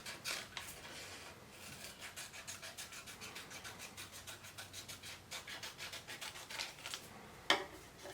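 Scissors cutting cardstock: a quick run of faint, crisp little snips and scrapes, with one louder short sound near the end.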